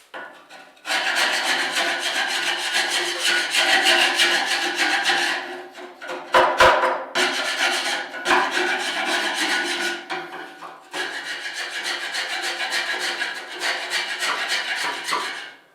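A sharp metal scraper rasping hardened soot and carbon deposits off the metal walls of a pellet stove's combustion chamber in fast, repeated strokes. There is a short break with a couple of knocks around the middle, and another brief pause later.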